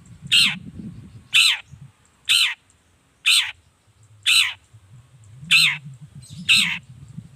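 Long-tailed shrike giving a series of harsh, rasping calls, seven in all, spaced about a second apart, each one sliding down in pitch. A faint low rumble sits underneath.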